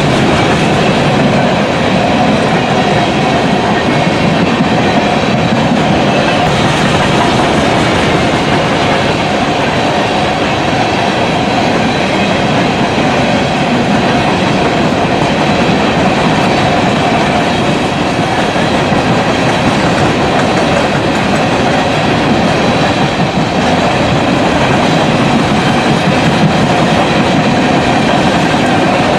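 Loud, steady rolling noise of a long freight train's open-top coal cars passing close by, their steel wheels running on the rails.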